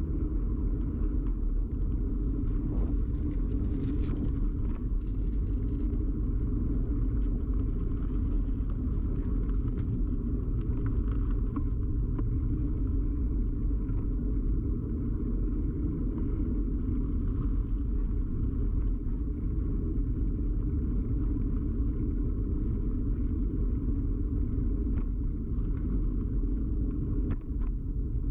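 Steady low rumble of a bicycle ride heard through a camera fixed to the bike, with road and tyre vibration carried through the mount. A few faint ticks and rattles are scattered through it.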